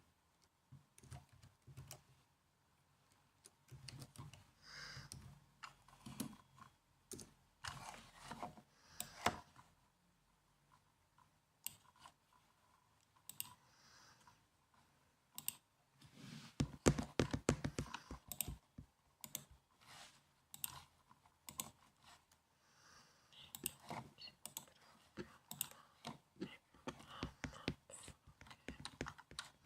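Typing on a laptop keyboard: quick runs of light key clicks with short pauses between them. The densest, loudest run comes a little past the middle.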